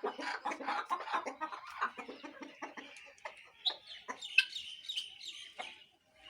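A flock of desi (native) hens and roosters clucking: a rapid run of short clucks, then higher-pitched calls in the second half.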